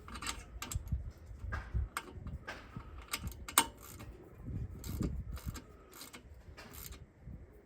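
Small socket ratchet tightening a brake caliper bolt: irregular metallic clicks and taps, with one sharper click about three and a half seconds in.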